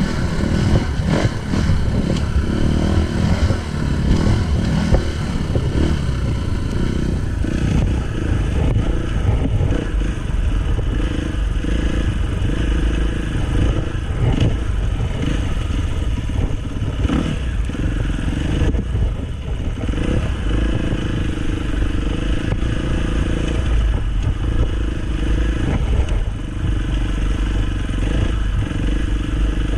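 Dirt bike engine running under way on a trail, its pitch rising and falling as the throttle opens and closes, with rattling and scraping over the rough ground.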